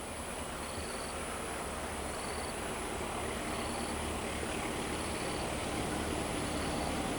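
Approaching train's diesel locomotive, a low rumble growing slowly louder. Short high insect chirps repeat about every second and a half over it.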